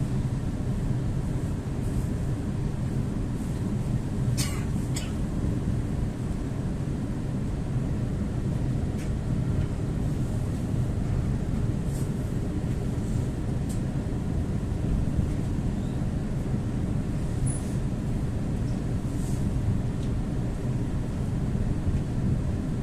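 ЭП2Д electric multiple unit running at speed, heard from inside the passenger car: a steady low rumble of wheels on track, with a couple of sharp clicks about four to five seconds in.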